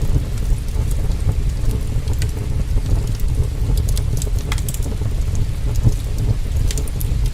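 Heavy rain with a steady deep rumble, and a wood fire crackling with scattered sharp pops throughout.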